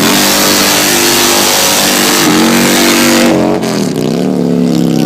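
Harley-Davidson Fat Boy V-twin engine in a hill-climb dirt bike, loud at full throttle. The pitch steps up a little about two seconds in. Near the middle the throttle eases: the hiss drops away and the pitch dips and wavers.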